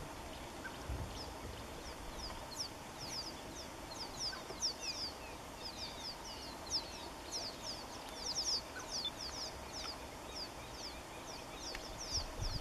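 Small birds chirping, many short high chirps overlapping several times a second, over a faint low steady rumble.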